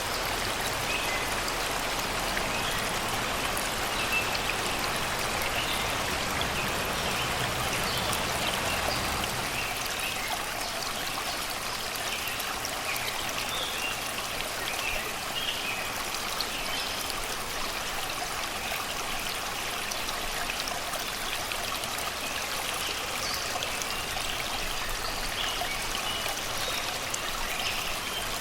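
Shallow river water flowing over and around rocks, a steady babbling rush, with birds chirping here and there from the surrounding forest.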